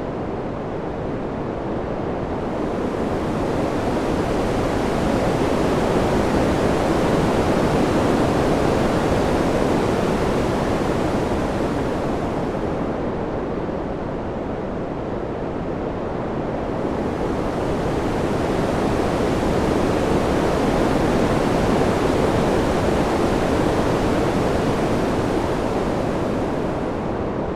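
Wind-sound ambience: an even rushing noise that slowly swells and eases off, twice, each swell building over a couple of seconds and holding for several more.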